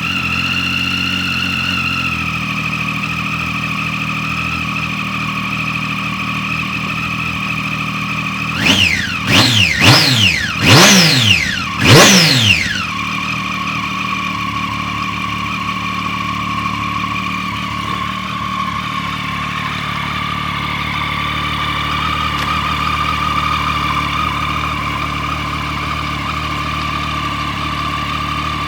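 Triumph Street Triple 675R's 675 cc inline three-cylinder engine idling just after starting, settling to a lower idle about two seconds in. Around the middle the throttle is blipped four times in quick succession, each rev rising and falling, before it returns to a steady idle.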